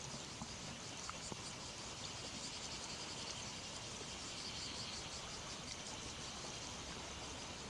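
Steady outdoor ambience dominated by a high, flickering chirring typical of insects, with a few faint clicks early on.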